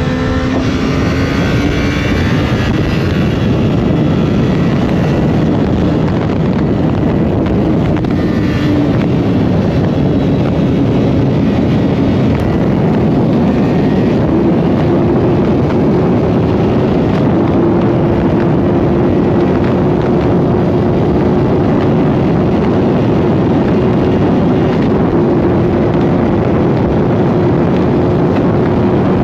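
Sport bike engine running hard at a steady high speed, its pitch edging up in a few small steps, under heavy wind rush on the microphone.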